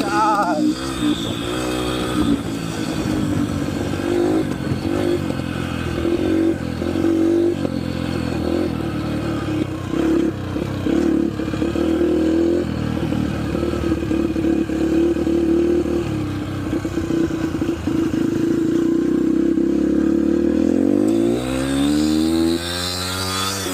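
Yamaha TT-R125 dirt bike's single-cylinder four-stroke engine running under way, holding a fairly steady note for long stretches. Its pitch rises and falls near the start and again near the end as the throttle changes.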